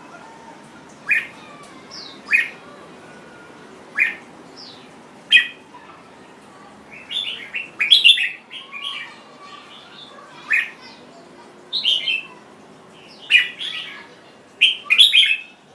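A jambul bird (a bulbul) singing in short, separate phrases about every second or so, with quicker runs of several notes about halfway through and near the end, over a steady low hiss.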